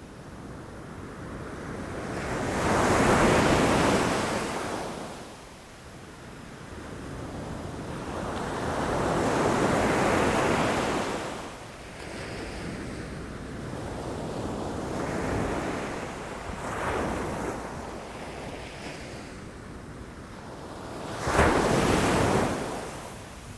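Ocean waves breaking against rocks, each one swelling and washing out over a few seconds; about four surges, the last one sharper and louder near the end.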